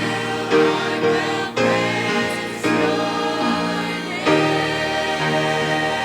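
Church choir singing a gospel song in harmony, with sustained chords changing about once a second.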